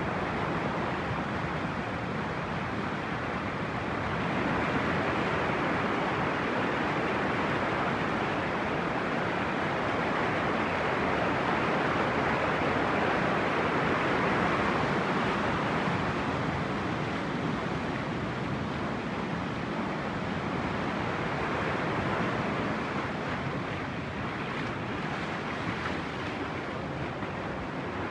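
Floodwater rushing across a road in a steady roar of water. It swells a little a few seconds in and eases toward the end.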